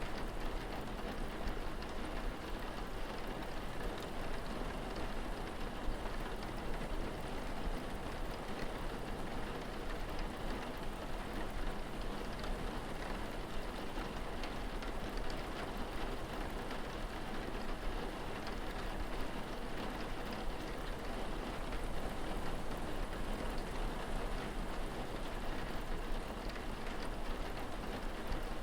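Steady rain falling, an even hiss with no breaks, over a constant low rumble.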